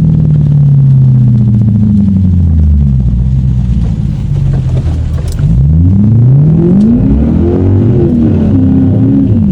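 Lexus car engine running under load, its revs falling away over the first few seconds and then climbing again in a hard acceleration about halfway through, levelling off near the end. The rear tyres are not spinning on the wet road, which the driver puts down to the rear differential.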